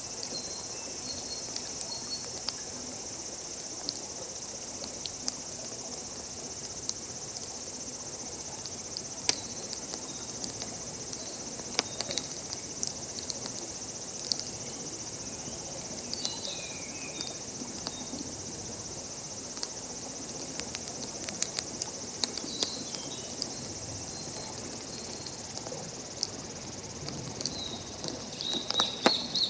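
A steady high chorus of insects, with sharp crackles and pops from a wood campfire scattered through it. Short chirps come in now and then and cluster near the end.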